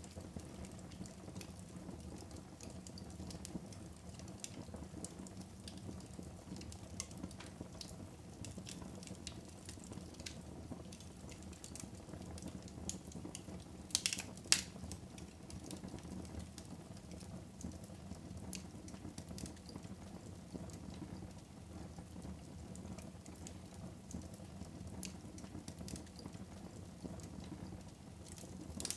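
Wood fire burning in a fireplace: a steady low crackle with scattered small snaps, and two sharp louder pops about halfway through.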